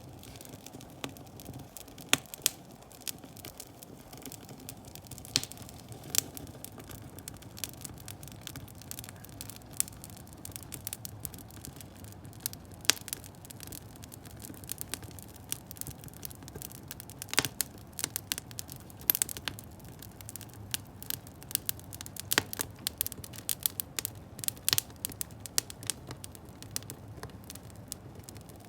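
Wood fire burning under a wood-fired bath, crackling with irregular sharp snaps and pops over a low steady rush of flame.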